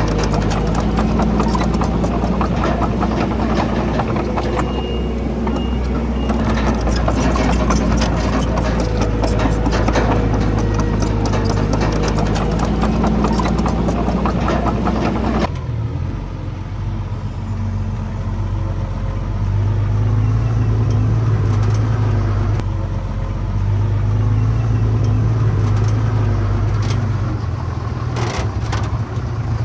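Komatsu D31PX bulldozer's diesel engine working, with dense clattering of steel tracks and rock through the first half. About halfway the sound changes abruptly to a steadier engine note that swells and eases back twice.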